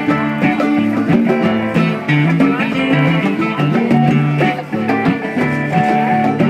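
Live acoustic band playing an instrumental break: plucked guitar and mandolin lines over a low bass line, with hand-drum strokes.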